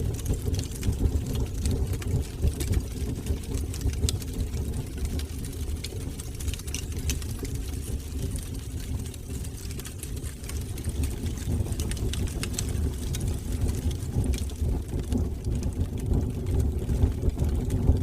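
Fire burning in a fireplace: a steady low rumble of the flames, with many small scattered crackles and pops.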